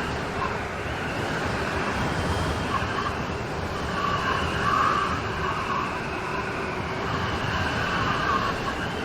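Steady rain of a rain storm falling, an even hiss with slight swells in level.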